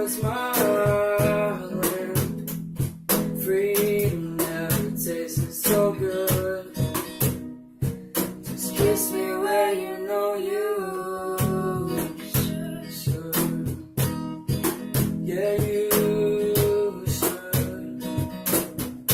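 Acoustic guitar strumming steadily, with a wordless melody line held and sliding in pitch over it.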